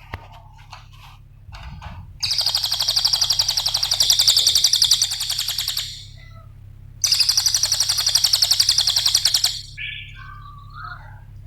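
Cililin songbird singing: a few short chirps, then two long, very rapid, high-pitched trills of about four and two and a half seconds with a short gap between them, and a few more chirps near the end. A faint steady low hum runs underneath.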